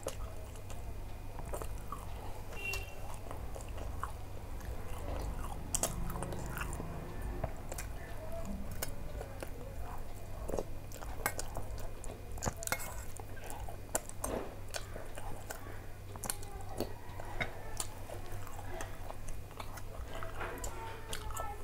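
Close-up chewing and biting sounds of a person eating paratha with curry, with scattered sharp clicks, over a steady low hum.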